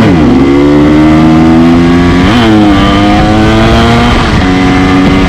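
125cc two-stroke motorcycle engine pulling hard under acceleration, its pitch climbing slowly and dropping sharply as it shifts up, once at the start and again about halfway through.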